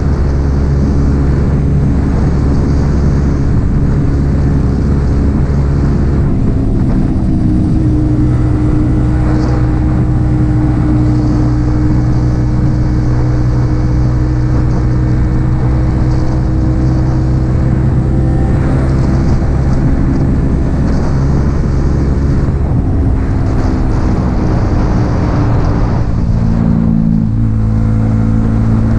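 Yamaha XSR 155's single-cylinder engine through an aftermarket M4 exhaust, running at speed on the road. Its pitch steps up or down several times as the revs change.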